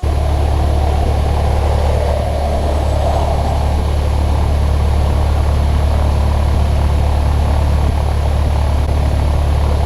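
Steady drone of a Cessna 152's Lycoming four-cylinder engine and propeller heard inside the cabin, an even low hum with rushing noise over it.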